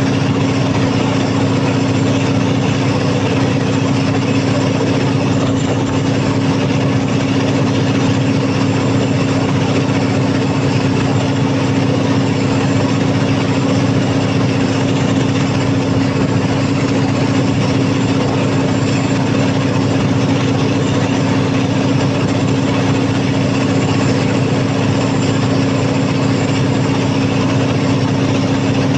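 Cummins KTA50 V16 turbocharged diesel generator set running steadily under load during a load test after a general overhaul, a loud even drone with a strong constant hum and no change in speed.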